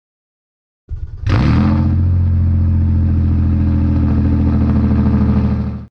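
An engine running at a steady speed with no revving. It sets in sharply about a second in and cuts off abruptly at the end.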